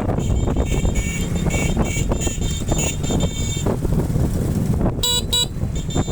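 A vehicle horn sounding in short repeated toots, a rapid run of beeps in the first half and two clearer toots about five seconds in, over a steady low rumble of engine and wind while riding.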